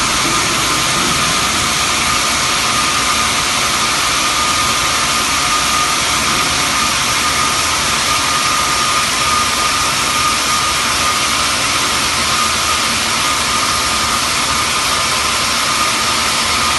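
Xianda CHJJ-1500 CNC bandsaw running as it cuts marble: a loud, steady noise with a constant high whine, unchanging throughout.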